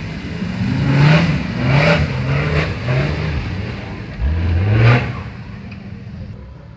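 Off-road vehicle's engine revving in a series of short bursts, each rising and falling in pitch, with a longer rev about four to five seconds in, then dropping back to quieter running.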